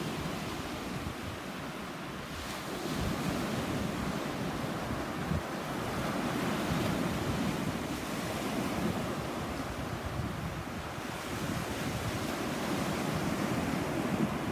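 Sea surf washing onto a beach, swelling and easing in slow surges, with wind buffeting the microphone.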